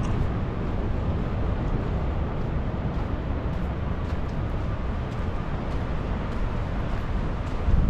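Strong wind buffeting the microphone, a steady low rumble, with a short louder gust near the end.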